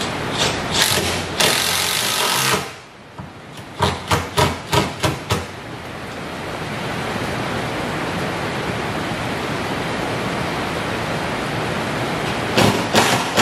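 A power driver sinks stainless self-tapping screws through a sheet of stainless steel into the workbench top. There is a longer run near the start, then about six short trigger bursts around four to five seconds in, and more near the end. Heavy rain makes a steady hiss underneath.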